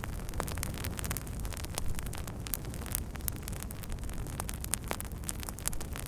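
Wood fire burning, with irregular sharp crackles and pops, several a second, over a low steady rush of flames.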